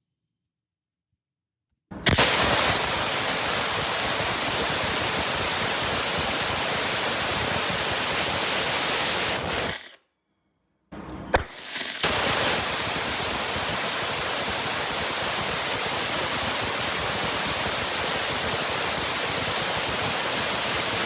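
Ethanol/oxygen liquid-fuel rocket engine test-firing twice. The first burn is a steady rushing roar of about eight seconds that starts suddenly and cuts off. After a short gap, a brief lead-in and a sharp crack about eleven seconds in mark the next ignition, followed by a second steady burn lasting about ten seconds.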